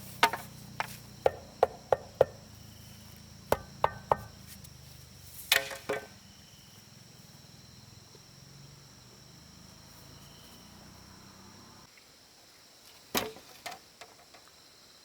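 Irregular sharp knocks in short clusters, like a hammer striking wood, typical of nailing wooden formwork. Crickets chirp steadily throughout.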